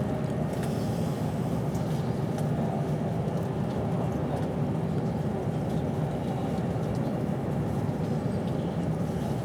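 A steady rumble of a passenger train at speed, heard from inside the carriage: the wheels on the rails and the running gear, with a few faint light ticks.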